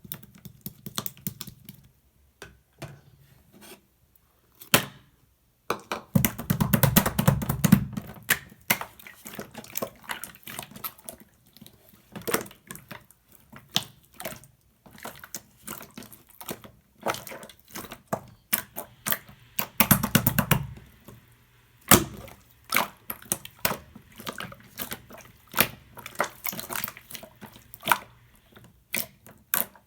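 Slime being kneaded and pressed by hand: a steady run of sharp wet clicks and pops from air pockets, with louder squelching stretches about six seconds in and again near twenty seconds.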